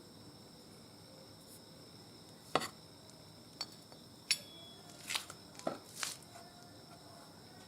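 About six sharp clinks and knocks of metal tools or parts being handled, scattered over a few seconds, over a steady faint high-pitched background hum.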